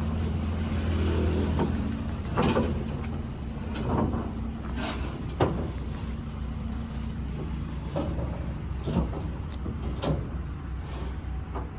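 Truck engine running steadily at a low idle, with several sharp knocks and clanks over it.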